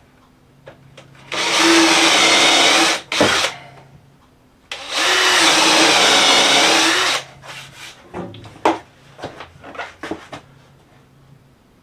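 Power drill run in two bursts of about two seconds each, its motor pitch sagging under load in the wood and picking back up. After them come several short knocks and taps of wood and tool being handled.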